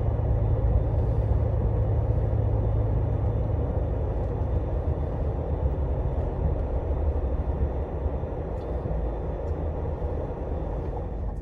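Scania Astromega double-decker coach running, heard from inside the cabin: a steady low rumble of diesel engine and road noise.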